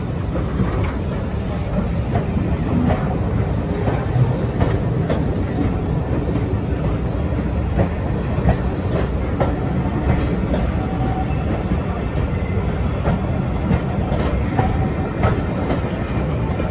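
Railway passenger coaches rolling past close by: a steady low rumble from the wheels with irregular sharp clicks and knocks as they run over the rail joints.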